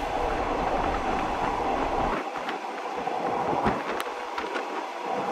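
Passenger train running on the rails, heard from on board: a steady noise of wheels on track with a few sharp clicks. The deep rumble drops away about two seconds in.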